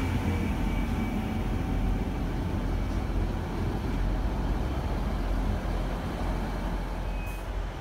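Diesel passenger train running slowly along the platform: a steady low rumble of engine and wheels that eases slightly toward the end.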